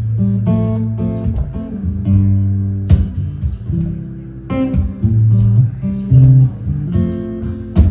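Acoustic guitar playing a song's instrumental intro: picked low notes and strummed chords, with a few sharp strokes, and no singing yet.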